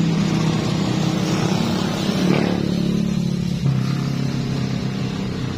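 An engine running steadily, with a brief rev about two seconds in and settling to a lower pitch near four seconds in.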